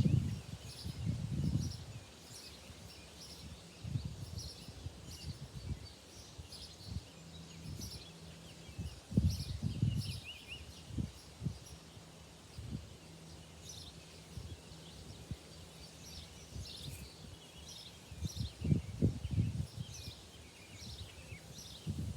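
Small birds chirping again and again, with irregular low thumps and rumbles that come and go in clusters, loudest at the start, about nine seconds in, and again near the end. No chainsaw is running.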